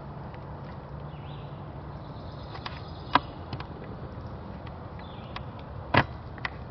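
A few sharp clicks and snaps, the two loudest about three seconds and six seconds in, over a steady low hum.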